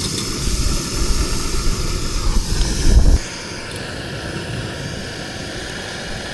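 Portable gas camp stove burner running with a steady roar, heating a pot to cook a sealed bag of stew. A heavier low rumble sits under it for the first three seconds, then drops away.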